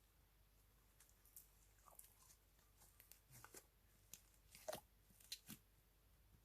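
Slime being worked by hand: faint, irregular sticky clicks and crackles, with a few sharper pops in the second half.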